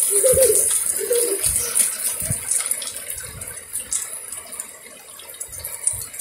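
Steady rain falling on a concrete rooftop, heard as an even hiss. A few short vocal sounds from a small child come in the first second or so, with a few soft thumps scattered through.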